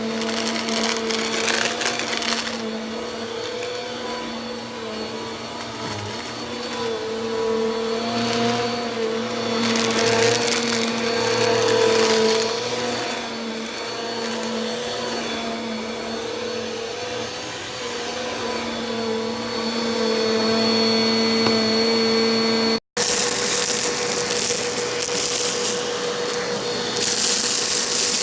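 Bissell vacuum cleaner running: a steady motor hum under a rushing hiss that swells and fades as it works. The sound drops out for an instant about 23 seconds in and comes back with a brighter, louder hiss.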